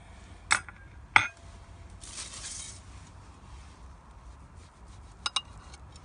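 Cookware or utensils clinking: two sharp, ringing clinks about half a second and a second in, a brief hiss around two seconds, and two quick clinks near the end.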